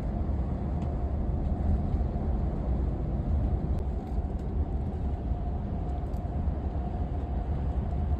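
Steady low rumble of a moving passenger vehicle heard from inside the cabin, with a faint steady hum above it.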